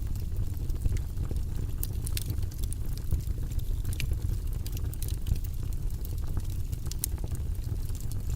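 Wood fire burning in a fireplace: a steady low rumble of the flames with frequent sharp crackles and pops from the logs scattered throughout.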